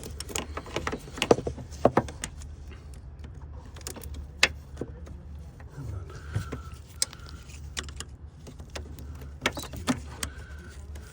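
Irregular plastic clicks and taps as a stuck quick-connect fitting on an EVAP line is worked by hand. A cluster comes in the first two seconds and a few more come later, over a steady low hum.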